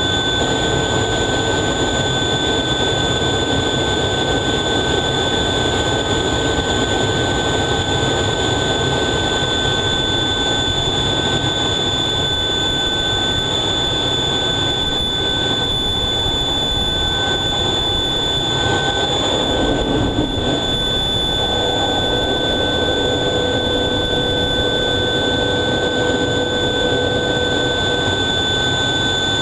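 F/A-18 Hornet's twin jet engines running, heard from inside the cockpit: a steady loud rush with a high, unchanging whine over it.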